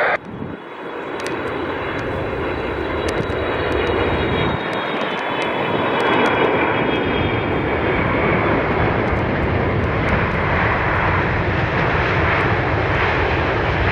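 Jet engines of a Boeing 777F freighter on landing: a broad rushing noise that builds over the first several seconds and then holds steady and loud.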